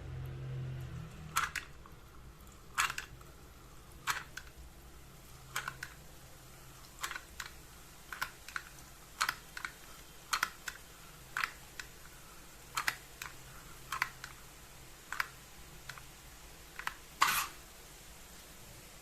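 A series of short, sharp clicks or taps, roughly one every second and some in quick pairs, with a faint low hum in the first second.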